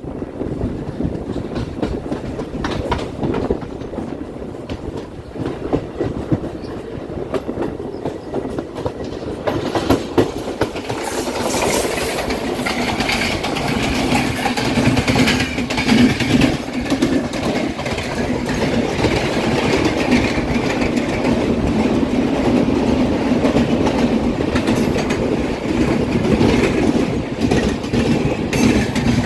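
Train wheels clickety-clacking over rail joints, heard from the open doorway of a moving Indian Railways coach, with rushing air. About ten seconds in, a train of LHB coaches running past on the next track makes the noise louder, with a harsher, hissing rattle that lasts to the end.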